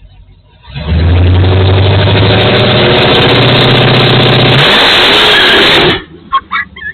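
Drag car's engine catching and running very loud, with a steady pitch that steps up slightly, then a quick rev up and back down about five seconds in before the sound cuts off suddenly.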